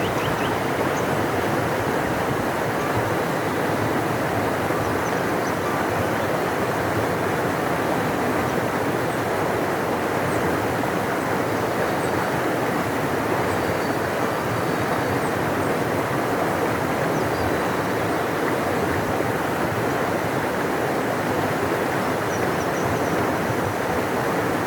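A large river rushing steadily, a deep, even roar of flowing water. A few faint high chirps sound over it now and then.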